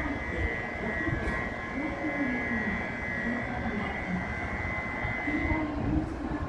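Tokaido Shinkansen train sound at the platform: a steady low rumble with a high-pitched whine that stops about five and a half seconds in, and voices in the background.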